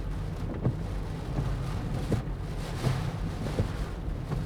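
Car driving on wet, flooded streets, heard from inside the cabin: a steady low road and engine rumble with wind noise and irregular light taps.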